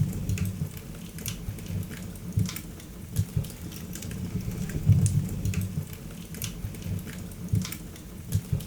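Wood fire burning in a fireplace: irregular sharp crackles and pops over a low, unsteady rumble of the flames.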